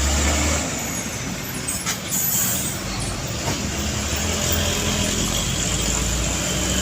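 Heavy truck traffic on a road: diesel truck engines running with a steady low rumble and road noise, the rumble swelling again in the second half.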